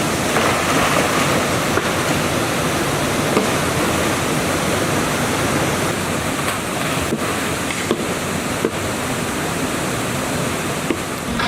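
Rushing water, a steady, even roar of a jungle stream, with a few faint knocks.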